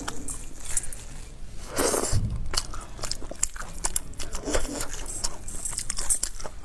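Close-miked chewing and wet smacking of a person eating braised beef rib meat: many short clicks throughout, with a louder bite about two seconds in.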